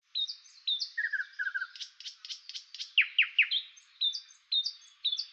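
Songbirds chirping and singing: a run of short, high whistled notes, a few quick downward-slurring calls about three seconds in, and a brief lower trill near the start.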